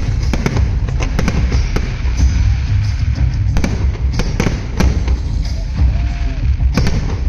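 Fireworks going off in quick, irregular succession: a dozen or more sharp cracks and bangs over a continuous low rumble.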